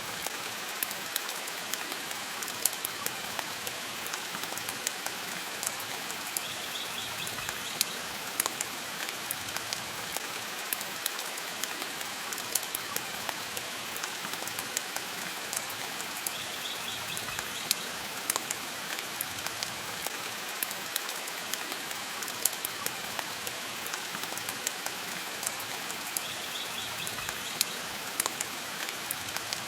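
Steady rain with a wood fire crackling: an even hiss of rain over sharp, irregular crackles and pops. A faint short high chirp comes back about every ten seconds.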